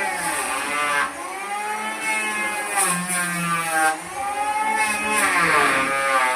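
Electric woodworking power tool whining as it cuts wood. Its motor pitch sags under load and recovers about four times, once per stroke.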